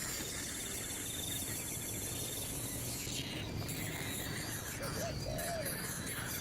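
Outdoor animal sounds: a rapid, even trill at one high pitch for about two seconds over a steady high insect hiss, then a short call around five seconds in.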